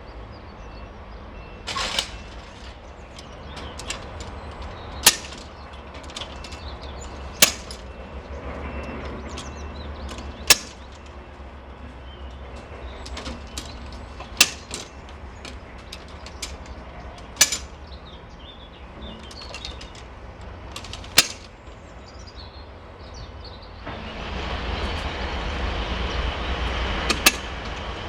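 Train at a station: a run of sharp bangs a few seconds apart over a low rumble. About four seconds before the end, the train's running noise swells up with a deep rumble.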